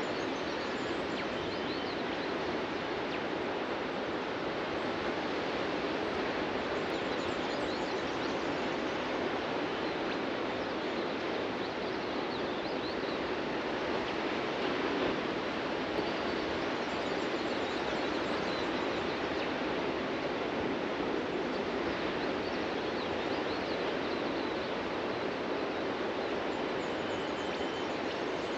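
Steady rush of ocean surf breaking on a beach, with faint bird chirps now and then.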